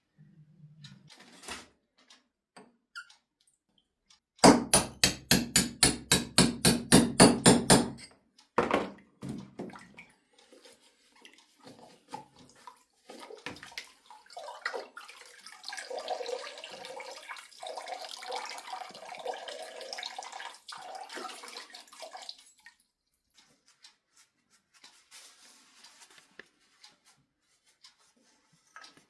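A fast run of sharp knocks, about five a second for some three seconds, with a few stray knocks just after. Later comes several seconds of running or splashing water.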